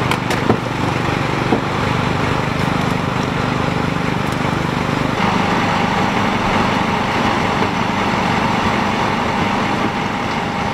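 An engine running steadily, its tone shifting to a different, steady pitch about five seconds in.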